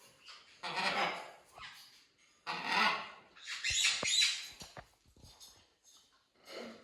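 Parrot squawking: three harsh calls in the first half, then quieter.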